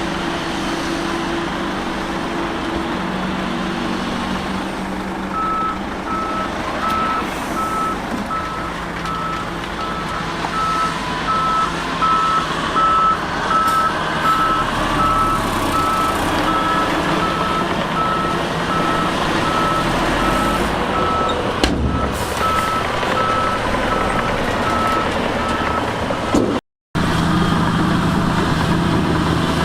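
A heavy diesel machine's reverse alarm beeping, about two beeps a second at one steady pitch, over its engine running as it backs up. The beeping starts about five seconds in and stops shortly before the sound cuts out briefly near the end.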